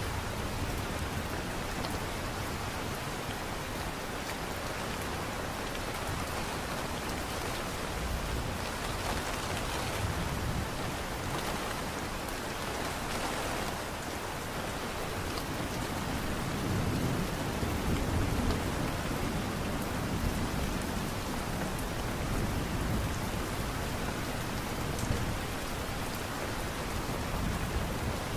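Light rain falling steadily, an even hiss of drops, with a low rumble swelling for a few seconds past the middle.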